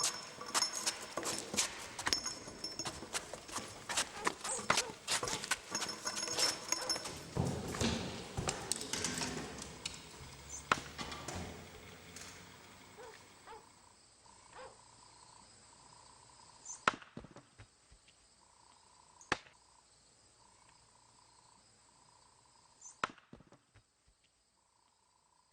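Rapid, clattering knocks and clicks for about twelve seconds, then thinning to three or four isolated sharp clicks. A faint, broken high tone comes and goes in the second half.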